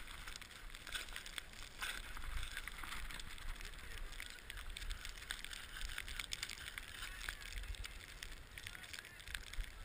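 Skis hissing and scraping over snow, with scattered scratchy clicks and a steady low rumble underneath.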